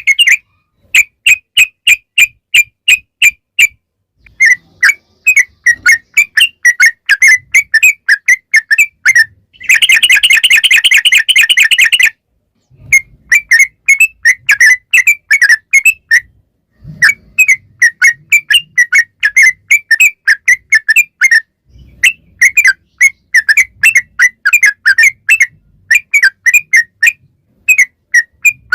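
Yellow-vented bulbul (trucukan) singing: phrases of quick, bubbly whistled notes a few seconds long, broken by short pauses. About ten seconds in comes a dense, rattling run of notes lasting about two seconds, the long roll ('ropel panjang') used to lure other bulbuls.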